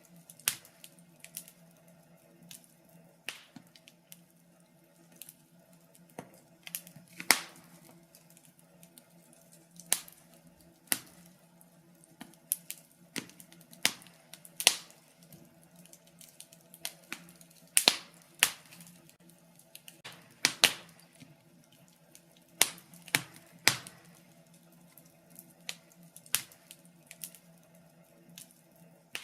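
Wood fire crackling in a fireplace: irregular sharp pops and snaps, some loud, over a steady low hum.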